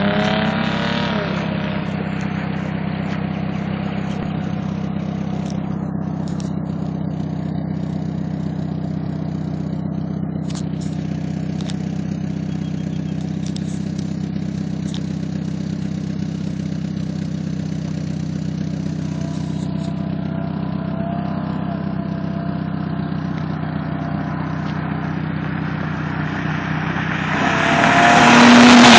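Audi A6 Quattro with a straight-piped exhaust running with a steady drone, then growing loud and fading again as it drives past near the end.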